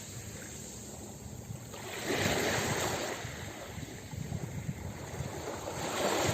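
Ocean waves breaking on a beach: a wave crashes about two seconds in and another surges near the end, with the hiss of surf washing between them.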